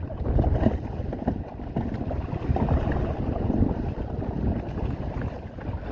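Gusty wind buffeting the microphone, with water rushing along the hull of a sailing canoe under sail. A rough, uneven rumble that rises and falls with the gusts.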